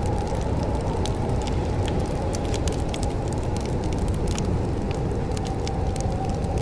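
Wood fire in a fireplace crackling, with many scattered sharp pops and snaps over a steady low rushing rumble.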